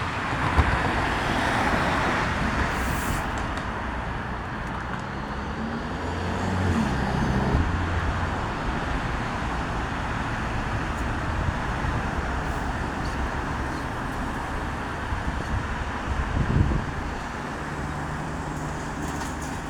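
Steady road traffic noise, a continuous rushing hum of passing cars.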